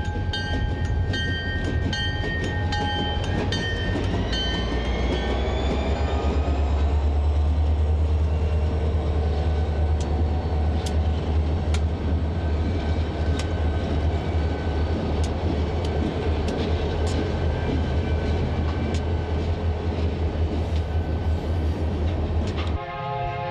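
Several EMD diesel-electric locomotives pass close by under power, with a deep, steady engine rumble. A horn chord sounds for the first few seconds. Once the units are by, steel wheels click over rail joints in a regular beat as the freight cars roll past. Near the end this cuts abruptly to another train horn chord.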